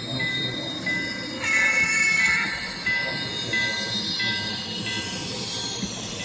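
N-scale model train running along the track, a steady light rumble with high-pitched squealing tones that come and go.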